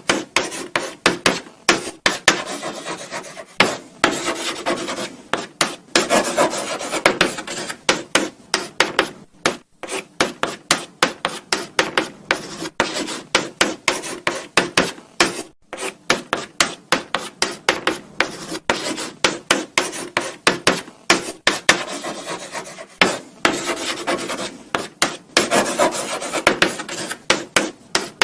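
Chalk writing on a blackboard: a quick, irregular run of short scratchy strokes and taps, broken by brief pauses.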